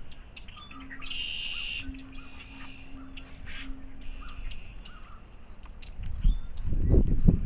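Wild birds calling and chirping, with one harsher, longer call about a second in. A loud low rumbling noise comes in about six seconds in.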